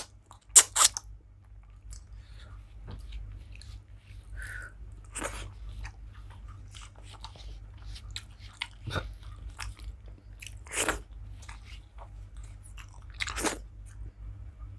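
Close-miked mouth sounds of a person eating rice and curry: chewing with sharp lip smacks and clicks, a cluster in the first second and a few louder ones spread through, over a steady low hum.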